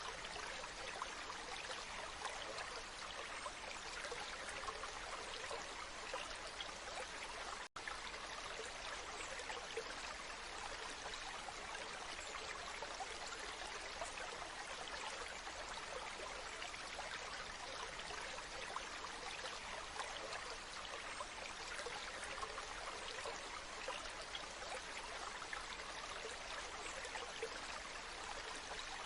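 Waterfall water rushing in a steady, even hiss, with a split-second cut-out about eight seconds in.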